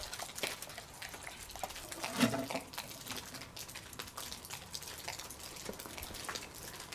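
Faint, scattered pops and crackles from a pot of rice simmering over a campfire, with one brief louder sound about two seconds in.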